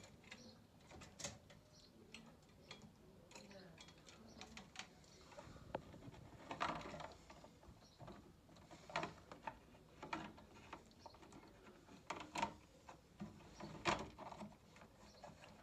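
Faint, irregular clicks and knocks of stairlift parts being handled and clipped back into place during reassembly.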